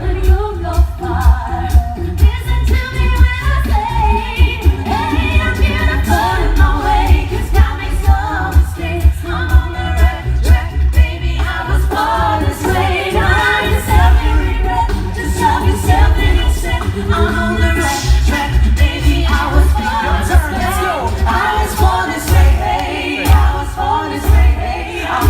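A cappella vocal group singing a pop song, all voices with no instruments, over a steady vocal-percussion beat.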